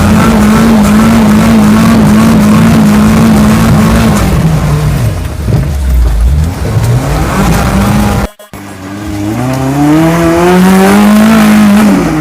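Suzuki Samurai's four-cylinder engine run wide open on the rev limiter, its pitch held flat for about four seconds, then dropping and climbing again. After a brief break about two-thirds through, it revs up again and falls off near the end.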